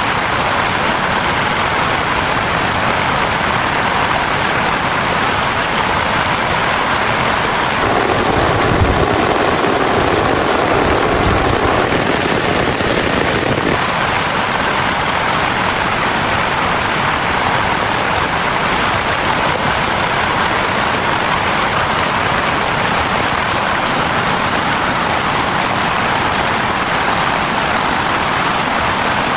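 Heavy rain falling steadily. A low rumble swells for a few seconds about eight seconds in.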